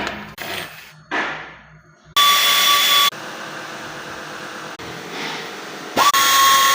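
A power tool's motor running in two loud bursts with a steady whine, the second spinning up quickly in pitch. A quieter steady hum runs between the bursts, and a few short knocks and whooshes come before them.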